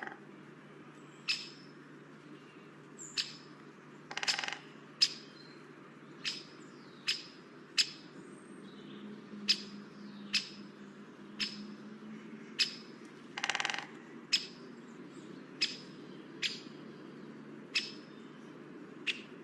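A bird calling over and over: short sharp calls about once a second, with two longer, harsher calls among them. A steady low hum lies underneath.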